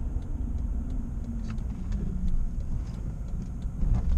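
Cabin sound of a Jeep with a Hemi V8 driving: steady low engine and road rumble, with a turn signal ticking evenly a few times a second.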